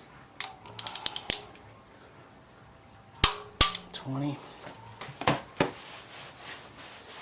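Hand tool clicking on the rocker arm fasteners of a Ford 302 small-block: a quick run of ratchet clicks, then a few single sharp metallic clicks as each roller rocker's nut is brought to tightness.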